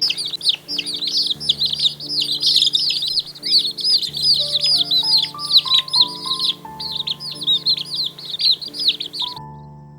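Many small birds chirping rapidly at once, a dense chorus of short high falling chirps that stops shortly before the end, over background music with held notes.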